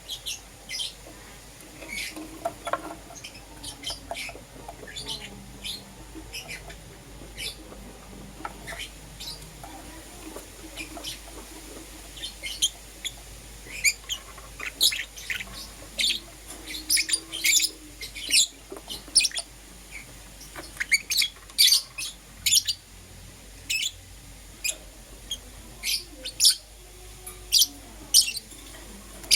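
Lovebirds (green opaline and lutino) chirping: short, sharp, high-pitched chirps, scattered at first and coming thick and fast from about halfway through.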